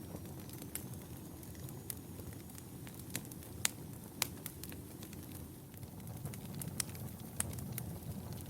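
Wood fire burning in a fireplace: a low, steady rush of flames with scattered sharp crackles and pops, the two loudest a little before the middle.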